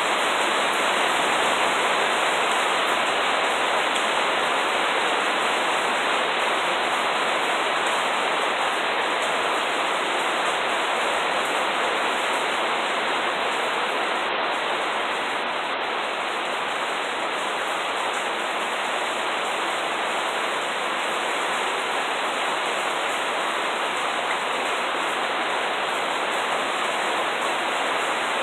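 Steady rainfall, an even hiss of falling water that keeps up without a break.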